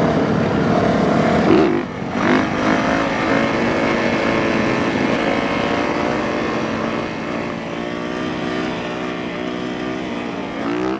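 Dirt bike engine running and revving under the rider, its pitch climbing about two seconds in, easing down through the middle and climbing again near the end.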